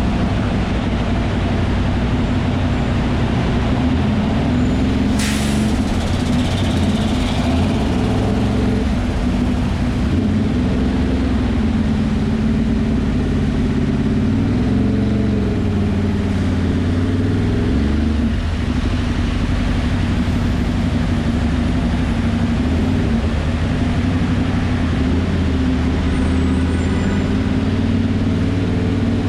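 Ducati Monster's V-twin engine running on the move, with wind and road noise; the engine note rises and falls with the throttle partway through. A brief sharp hiss sounds about five seconds in.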